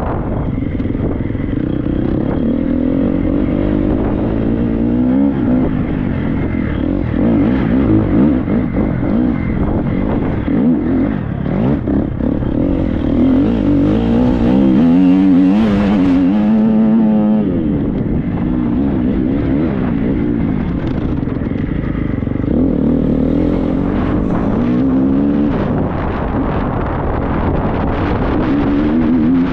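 Triumph 250 four-stroke single-cylinder motocross bike engine revving up and down under changing throttle while being ridden, its pitch rising and falling repeatedly, with wind buffeting the microphone.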